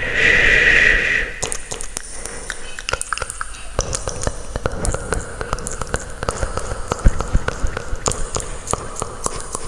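ASMR trigger sounds of small objects being handled close to the microphone: a hiss lasting about a second, then a long run of light taps and clicks.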